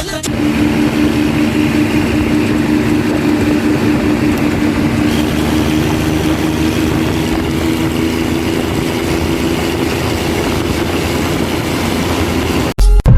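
Tractor engine running steadily with an even drone. It cuts off abruptly near the end.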